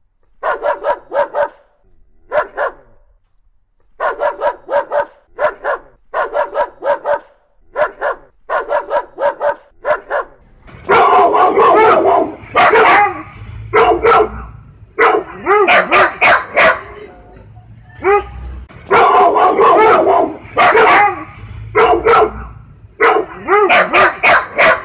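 Dogs barking loudly in quick runs of barks. About ten seconds in, a denser, louder stretch of barking with steady background noise takes over.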